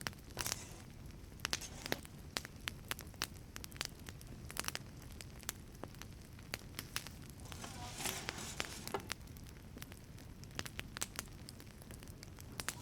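Wood fire burning in a wood-fired pizza oven: irregular sharp crackles and pops over a steady low rumble, with a brief hiss about eight seconds in.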